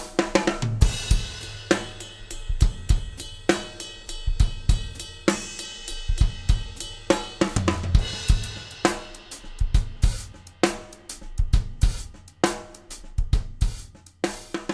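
Drum kit playing a half-time shuffle groove, with bass drum, snare, hi-hat and cymbals in a steady repeating pattern.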